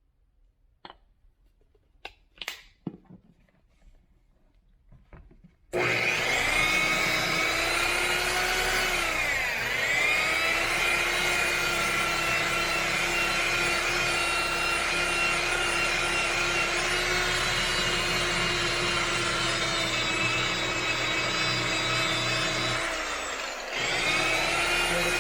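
A few faint taps, then an electric orbital buffer switches on about six seconds in and runs with a steady whine while polishing scratch compound into car paint. Its pitch sags and comes back up twice, once near ten seconds and once near the end.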